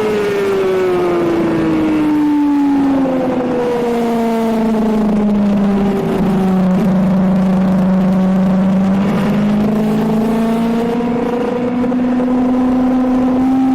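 Suzuki GSX-R750 K7 inline-four sportbike engine heard onboard at a track day, over wind rush. Its revs fall for the first few seconds as the bike slows into a corner, stay low in the middle, then climb gradually as it drives out.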